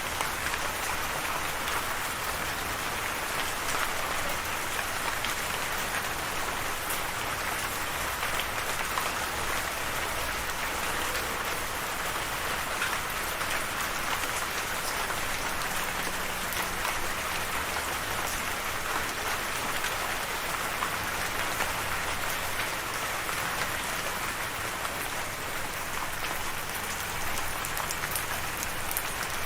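Steady rain falling on a surface, an even hiss of many drops with scattered individual drop ticks.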